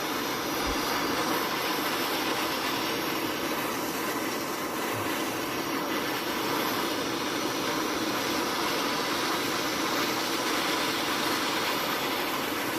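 Handheld gas torch flame burning with a steady hiss, heating twisted wire to anneal it.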